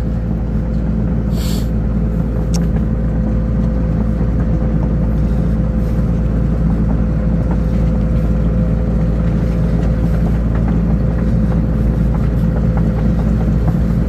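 Engine of a bucket loader running steadily as it drives across soft ground, with a constant low rumble and a steady whine held above it.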